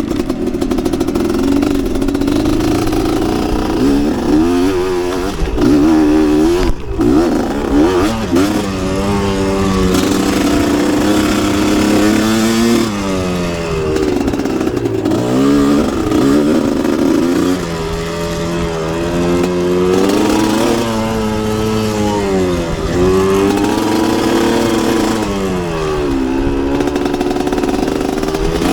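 A two-stroke motocross dirt bike engine under hard riding: the pitch climbs as the throttle is opened, drops as the rider backs off or shifts, and climbs again every few seconds.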